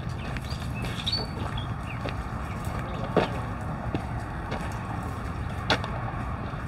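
Footsteps of a person walking, with two sharper clicks about three and six seconds in, over a steady low rumble. A few faint short bird chirps come about a second in.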